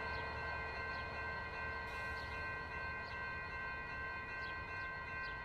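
Freight train cars rolling past, a low rumble with several steady, high ringing tones held over it.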